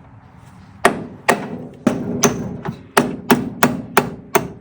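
A hammer striking a small homemade drift, ground from a screw, metal on metal, to drive a roll pin out of a bracket on the Porsche 356's gear shift rod. About nine sharp ringing blows come a little faster toward the end, driving the pin out.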